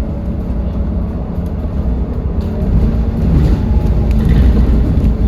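Edison Motors Smart 110G city bus's GX12P natural-gas engine running with the bus under way: a steady low drone that grows somewhat louder in the second half.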